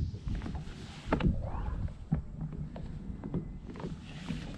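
Fishing kayak getting under way: irregular knocks and clicks on the hull and gear, the loudest about a second in, over a low rumble of water and wind.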